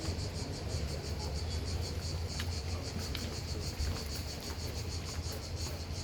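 Insects chirping in an even, rapid pulse of about five beats a second, over a steady low rumble.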